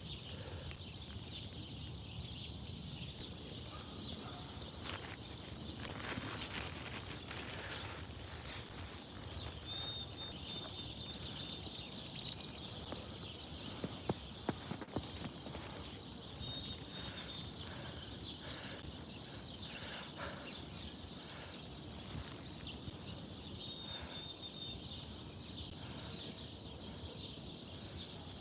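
Small birds calling outdoors: a short whistled phrase of two steady high notes and a quick trill repeats every several seconds, over many brief high chirps, with scattered light clicks and taps.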